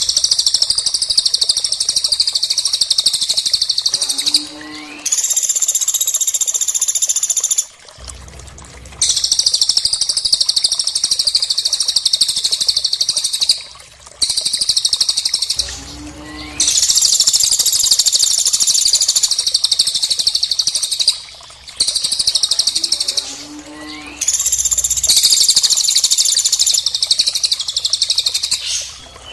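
Recorded songbird song mixing cililin and woodpecker (pelatuk) calls: long, dense, high-pitched trilling phrases a few seconds each, broken by short gaps, with the same phrase pattern coming round again every ten seconds or so.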